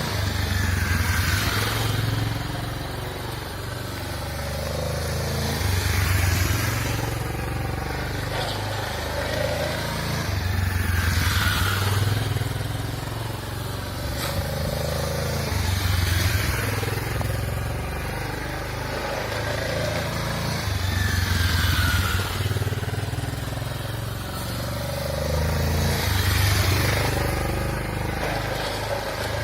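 Motorcycle engine on a wet track, its revs and loudness rising and falling in a repeating cycle about every five seconds, over a steady hiss.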